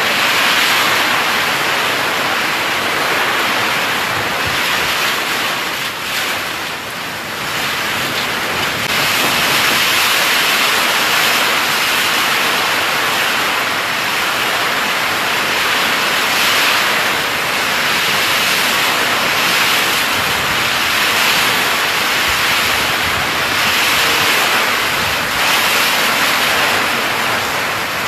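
Heavy rain falling in strong wind: a loud, steady hiss that eases briefly about six seconds in, then comes back in swells.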